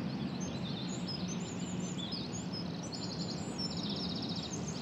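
Several small birds chirping and trilling rapidly in quick high notes over a steady low background rumble.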